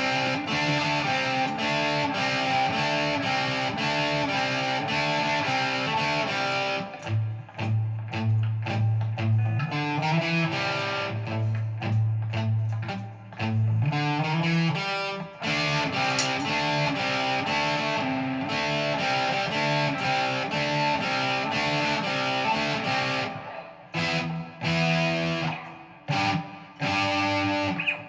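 Guitar playing an instrumental riff in A against a droning A note, the melody picked on the D and G strings; a strong low bass note pulses for several seconds in the middle.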